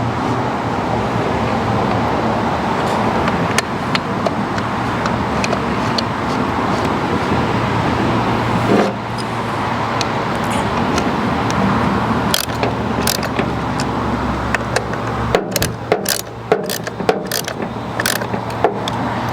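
Steady motor-vehicle rumble with a constant low hum. From about twelve seconds in, and thickly near the end, a run of sharp clicks and taps from small trimmer parts being handled.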